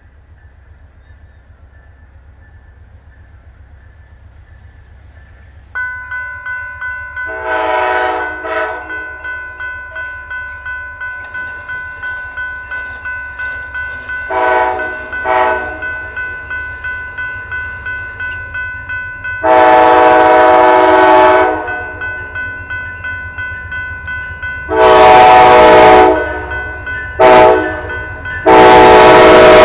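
An approaching Amtrak locomotive sounding its multi-note air horn, with short blasts first and then the long, long, short, long grade-crossing signal, the last long blast still going at the end. A bell starts suddenly about six seconds in and rings steadily about twice a second beneath the horn.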